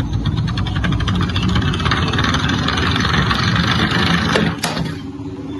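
Toy car rolling, giving a fast, even mechanical rattle that fades out near the end, with one sharp click just before it stops.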